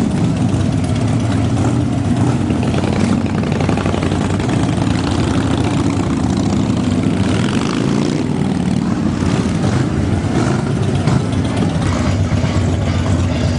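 Motorcycle engines running at idle, a steady loud rumble.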